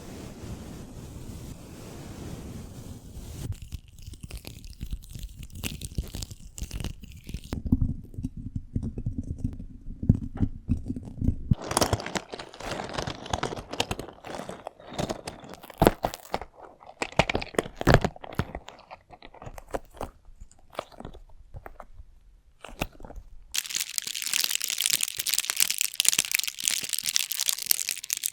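Close-miked ASMR trigger sounds: dense crunching and crackling with sharp taps, the texture changing several times, ending in a fine, hissy crackle for the last few seconds.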